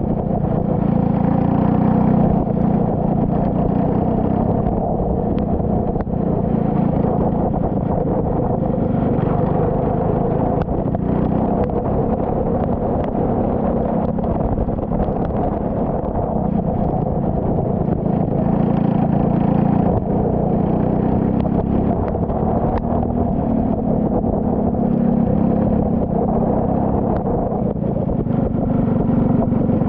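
Turbocharged Saab 9-3 race car engine running hard through a lap, its note rising and falling several times with throttle and gear changes, over a steady hiss of spray from the wet track.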